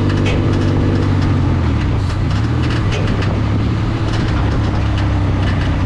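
Vehicle drivetrain with a Mendeola MD4S transaxle running. The engine note holds steady, then shifts about two seconds in, with a constant clicking rattle over it. The owner reports these noises as coming from the transaxle.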